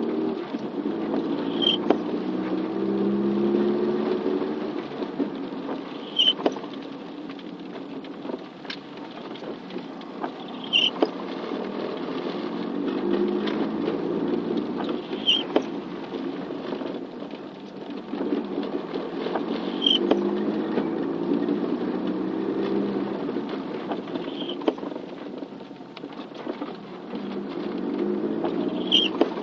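Vehicle engine running on the move in rain, its pitch rising and falling with speed, with scattered taps and a short high squeak that repeats about every four and a half seconds.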